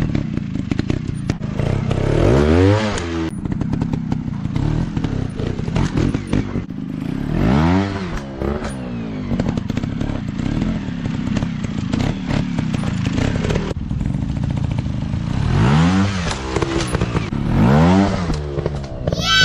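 Dirt bike engines running on a trail, revving up and back down about four times, with scattered clicks and clatter throughout.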